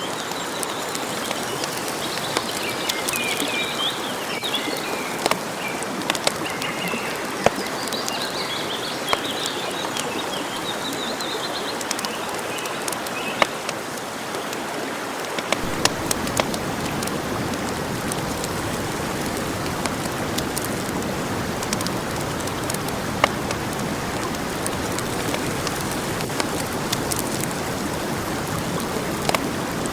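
Campfire crackling and hissing steadily, with scattered sharp pops. Songbirds sing over it for the first twelve seconds or so, and about halfway a deeper low noise joins in.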